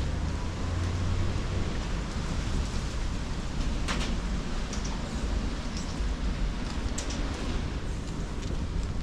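Storm wind gusting against the microphone, a steady low rumble and hiss, with a few brief sharp taps or rustles.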